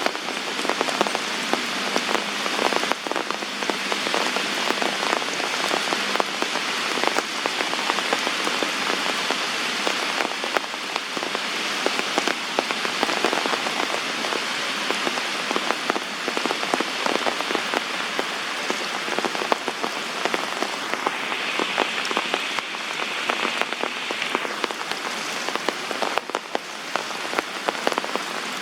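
Heavy rain falling steadily, a dense patter of individual drops striking surfaces.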